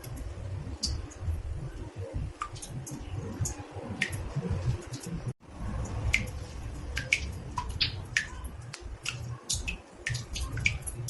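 Water drops falling into a bathtub, in irregular pings about two a second over a steady low rumble. The sound cuts out for an instant about five seconds in.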